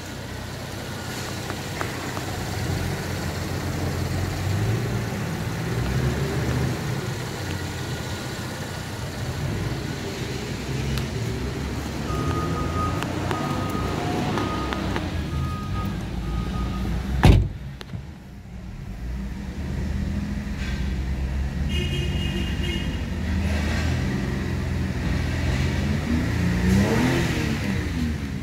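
2012 Holden Commodore's 3.6-litre V6 petrol engine running at idle and revved up and down a few times. A car door shuts with a loud thud about two-thirds of the way through. After that the engine sounds duller, heard from inside the cabin, and it is revved again near the end.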